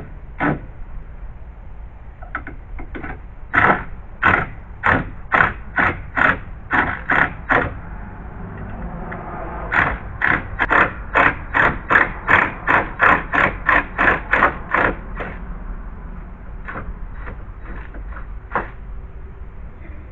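Hand saw cutting wood in two bouts of steady back-and-forth strokes, about two strokes a second, the second bout a little faster and longer, with a few scattered knocks around them.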